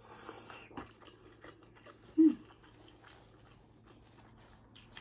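Close-up eating sounds: chewing with small wet clicks and crunches of seafood boil. About two seconds in, a brief pitched sound falls in pitch. It is the loudest thing heard.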